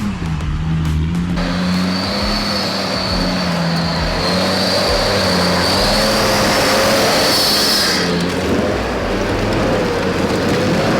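Off-road 4x4 engine running hard under load. From about a second and a half in until about eight seconds a loud rush of noise and a high whine join it, then ease off.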